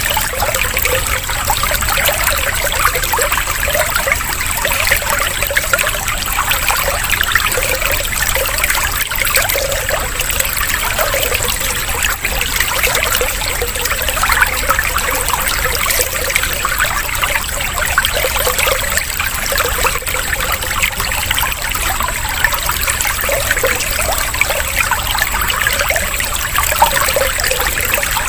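Steady trickling, bubbling water like a small stream or fountain, with no letup.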